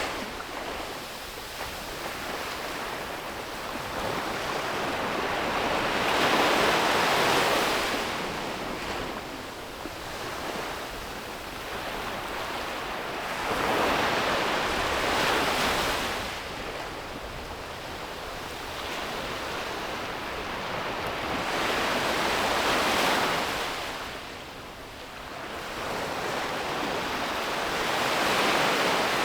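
Ocean surf breaking and washing up the beach in slow swells, a louder surge about every seven to eight seconds, with a steady rushing hiss of water between them.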